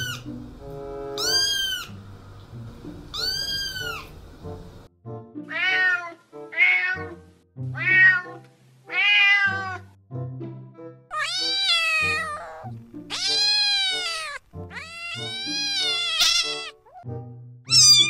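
Cats meowing, one meow after another, about ten in all, each rising then falling in pitch; the first few are high and short, the later ones longer. Background music plays underneath.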